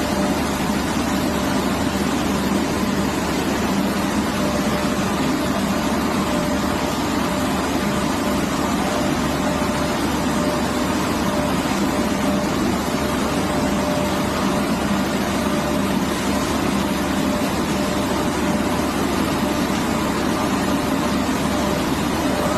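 Steady industrial noise of a furnace plant running, even and unchanging throughout, with a faint steady hum above it.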